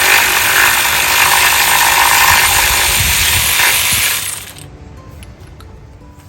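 A power tool running loudly for about four and a half seconds, then cutting off, leaving quiet background music.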